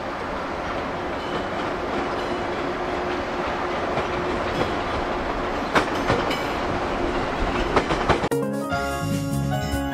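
Electric commuter train running at a station platform: a steady rumble with a few sharp wheel clacks over rail joints in the second half. Near the end the train sound cuts off abruptly and music starts.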